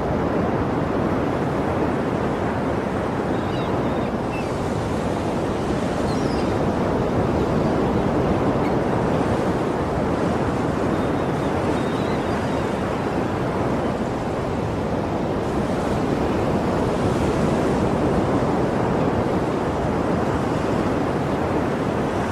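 Sea waves washing on the shore: a steady rushing noise that swells twice as the surf surges.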